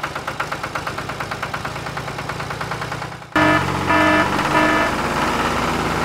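Tractor engine chugging at a rapid, even beat. After a cut about three seconds in it runs louder, and three short tones sound over it.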